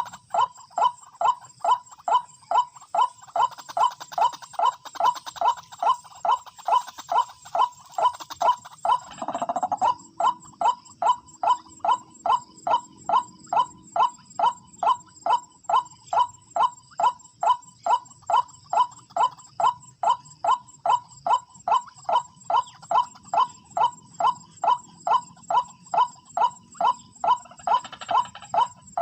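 White-breasted waterhen calls repeated in an unbroken, very even rhythm of a little over two a second, as used for a trapping lure call. There is a short rustling burst about nine seconds in.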